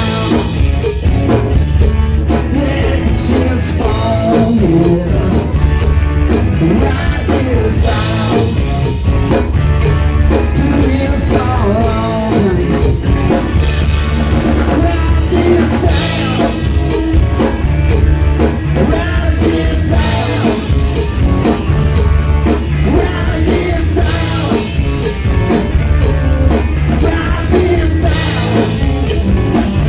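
Live rock band playing loudly, with drum kit, bass and electric guitar driving a steady beat.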